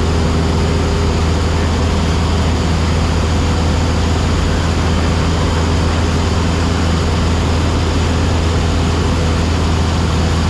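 Cabin drone of a Cessna 172SP in level cruise: its Lycoming IO-360 four-cylinder engine and two-bladed propeller running at a constant pitch, a steady deep hum with an even rush of airflow over it.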